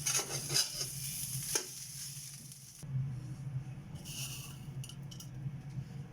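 Garlic fried rice sizzling in a pan while a spatula scrapes and stirs it, for about the first second and a half, then a few light clinks of utensils. A steady low hum runs underneath.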